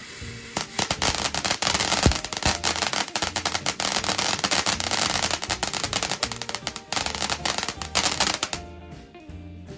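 Firework going off with dense crackling that starts about half a second in and stops shortly before the end, over background music with a steady beat.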